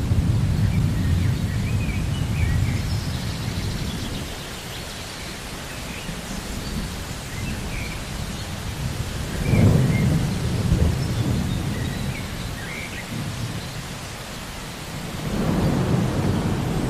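Steady rain with rolling thunder: a low rumble fading over the first few seconds, a sharper clap about halfway through that rolls away, and another rumble building near the end.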